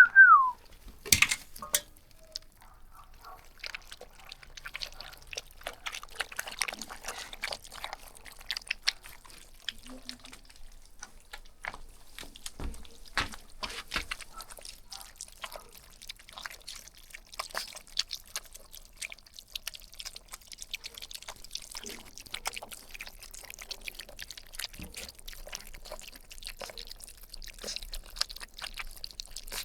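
A puppy gives one brief falling whimper, then a long run of small, irregular wet clicks of a puppy licking.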